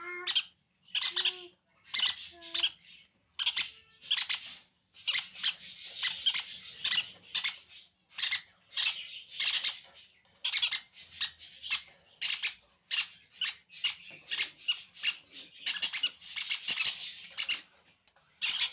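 Sun conure chicks giving harsh, raspy food-begging calls during hand-feeding, short calls repeated about one or two a second.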